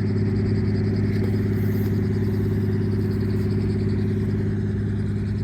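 A helicopter warming up on the ground, its engine and rotor running steadily with a fast, even pulsing over a low hum.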